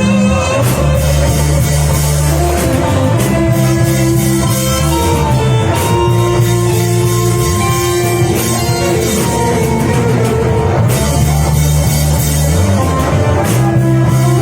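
Worship band music with no voice: bass, guitar and drums playing a steady groove, the bass notes changing every second or two.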